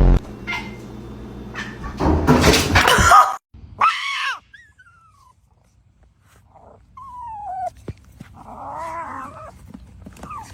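A dog whining and vocalising, with a few short high whines that fall in pitch. A loud sudden sound opens it and a noisy rustle follows a couple of seconds in.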